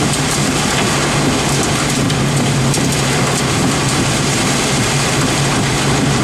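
Steady roar of thunderstorm wind and heavy rain, over a low steady hum.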